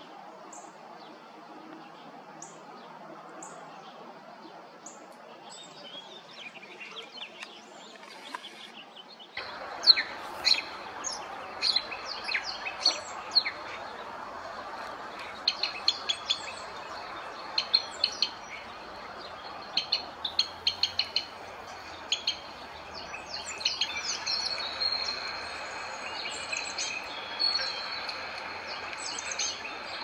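Small birds chirping, many short, sharp calls overlapping. They are faint at first, then much louder and denser from about nine seconds in, over a steady outdoor background noise.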